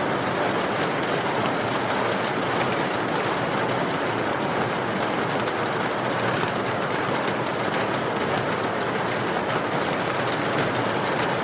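Steady heavy rain with a wood fire crackling, small faint pops scattered through it.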